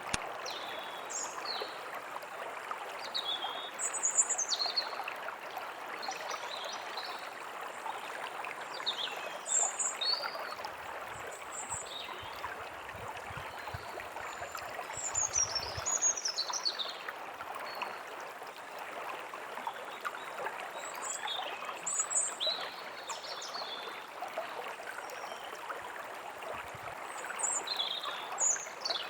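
A forest stream running with a steady rush of water, while small songbirds chirp and sing in short, quick phrases throughout.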